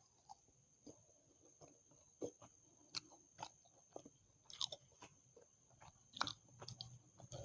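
Close-miked chewing of soft fried Indian food: faint, irregular wet mouth clicks and smacks, a little busier about two-thirds of the way through.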